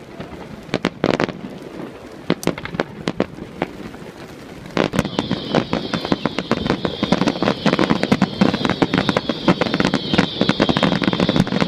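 Fireworks going off: scattered sharp bangs at first, then about five seconds in a dense, rapid crackling barrage begins and grows louder.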